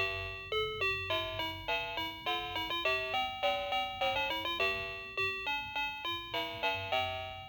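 Electronic chime tune from an interactive toy truck's built-in speaker: a bright, bell-like melody of quick notes, about three or four a second.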